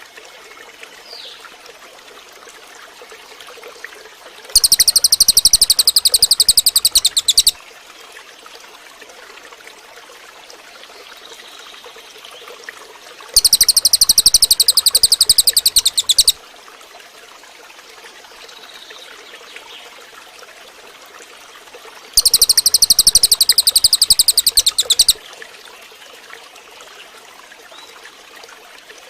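Cililin bird singing a loud, very rapid high-pitched trill in three bursts of about three seconds each, evenly spaced, over a faint steady hiss.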